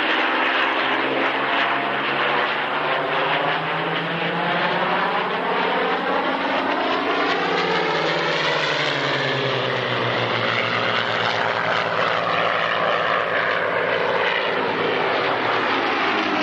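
Rolls-Royce Merlin piston engine of a Supermarine Spitfire running at display power. The plane makes a pass, the engine note rising and then falling away about halfway through.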